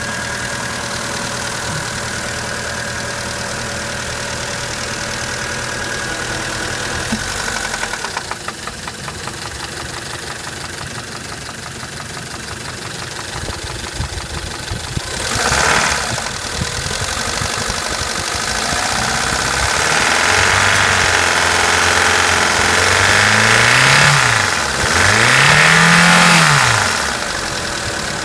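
Mitsubishi 4A30 660 cc inline-four in an H56A Pajero Mini running with a metallic knocking noise, idling and then revved up, briefly about halfway and in two rising-and-falling blips near the end. The knock is a fault that the owner puts down to either a hydraulic lash adjuster or a bearing.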